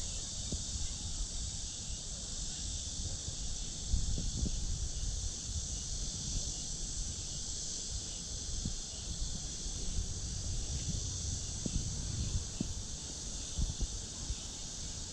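Steady, high-pitched chorus of insects, with irregular low thuds and rumble underneath.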